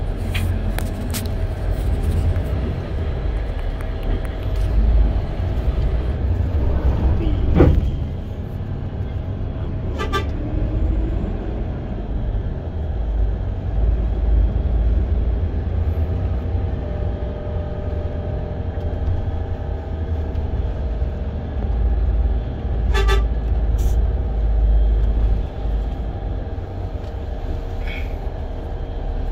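Diesel bus engine running with a heavy low rumble, with short horn toots now and then, about ten seconds in and again past twenty seconds.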